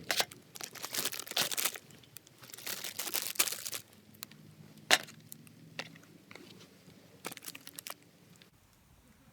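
Crinkling and tearing handling noises in several bursts, with a single sharp click about five seconds in and a few lighter rustles after it.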